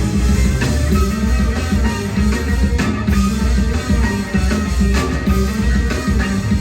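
Rock band playing live: guitar, bass and drum kit in a full, steady groove.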